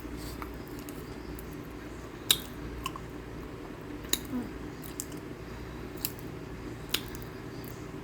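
Cornstarch chunks being bitten and chewed close to the mouth: a few sharp, crisp cracks about a second apart, the loudest about two seconds in, over a steady low hum.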